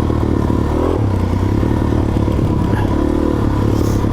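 Suzuki DR-Z400S single-cylinder four-stroke engine running under way on a dirt trail, its pitch rising and falling with the throttle.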